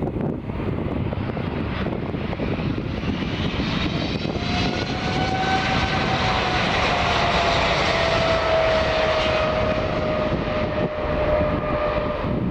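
Boeing 777 with GE90 jet engines passing close by. The jet noise swells about four seconds in, and a whine slowly falls in pitch as the aircraft goes past.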